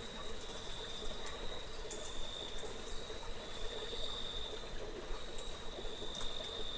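An insect trilling steadily at a high pitch, the trill swelling and easing slightly every second or so, over a soft background hiss with faint scattered ticks.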